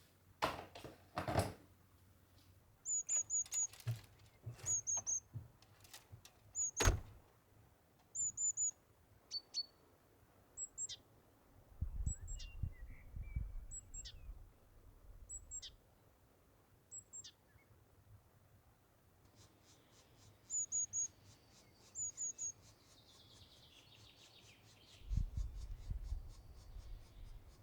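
Small songbird chirping: short high notes in quick clusters of two to four, repeated every second or two. A few sharp knocks sound in the first several seconds, and low rumbles come around the middle and again near the end.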